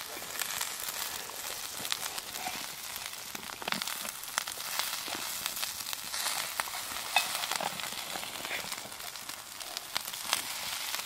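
Sliced potatoes and onions sizzling steadily in a cast-iron pan over a wood fire. Scattered scrapes and clicks come from a slotted metal spatula turning them.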